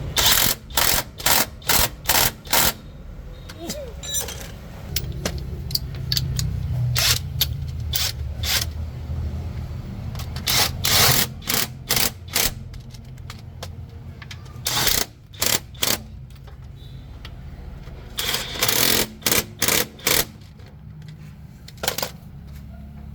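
Pneumatic impact wrench rattling in short bursts, six in quick succession at the start and more in clusters after, running bolts in or out during a heavy-truck clutch and gearbox job. A steady low drone runs underneath.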